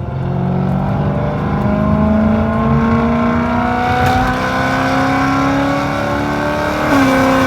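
BMW M3's 4.0-litre S65 V8 accelerating through a catless resonated X-pipe exhaust with the valves open, the pitch rising steadily through the mid-range. It briefly dips near the end.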